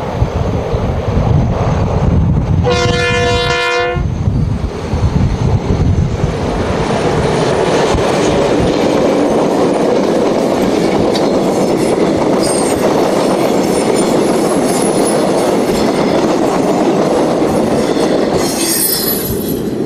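Two diesel-electric locomotives sound one horn blast of about a second, a few seconds in, over the low rumble of their engines. Their passenger cars then roll past with a steady rumble of wheels on rails, and a high wheel squeal comes near the end.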